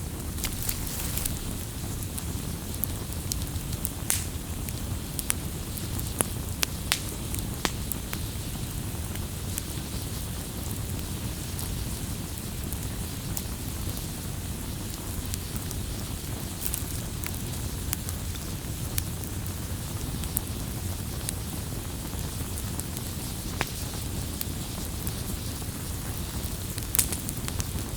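Wood campfire burning with a steady low rush of flame, broken by scattered sharp crackles and pops from the burning wood.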